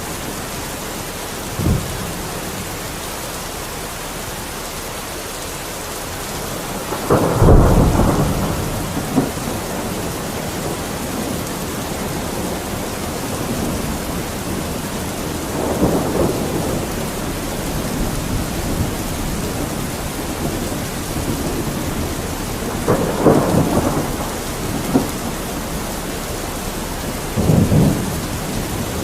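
Steady rain falling, a continuous hiss, with four low rumbles that swell and fade over a second or two each, the loudest about seven seconds in.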